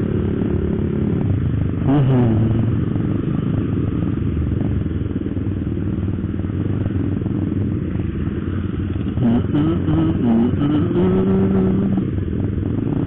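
Motorcycle engine running while riding slowly in town traffic, with other scooters and motorbikes running close by. The engine note rises and falls a few times, once about two seconds in and several times in the last few seconds.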